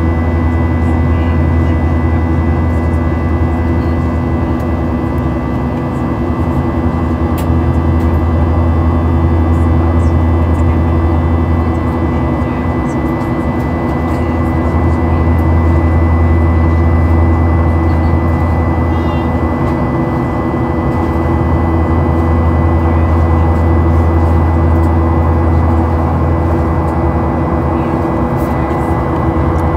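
Steady in-flight cabin noise of a Boeing 737-800 with CFM56 engines: a loud, even low rumble of engine and airflow, with a few steady hums running through it.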